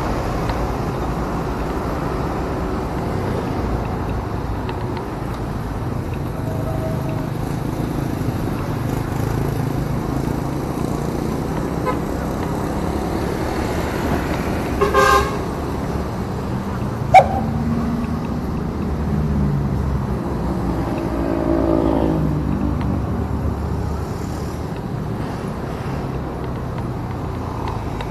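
Motorcycle riding in traffic: a steady engine and road rumble, with a quick double toot of a vehicle horn about halfway through and a single sharp click about two seconds later. Another engine's pitch rises and falls briefly toward the end.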